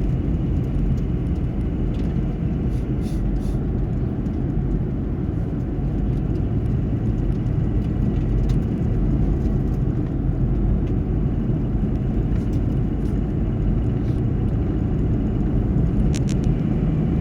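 Car driving at highway speed, heard from inside the cabin: a steady low road and engine rumble, with a few faint ticks.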